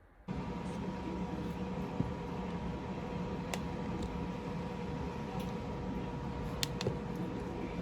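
A steady mechanical hum with a faint whine, cutting in abruptly just after the start, with a few light clicks over it.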